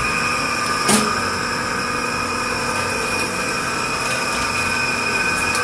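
Steady machine hum with several high whining tones held throughout, and a single sharp click about a second in.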